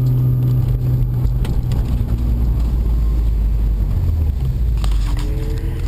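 Rally car's engine running steadily at low speed, heard from inside the cabin, with a couple of light knocks.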